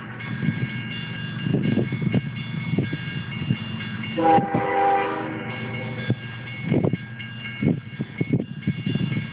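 Freight train rolling by with a steady low rumble and irregular clanks from the cars. The locomotive horn sounds one short blast about four seconds in.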